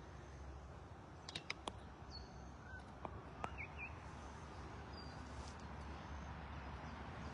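Faint lakeside ambience with a steady low rumble and scattered short bird calls: a few high chirps that drop in pitch and a couple of lower notes near the middle. Three or four sharp clicks a little over a second in.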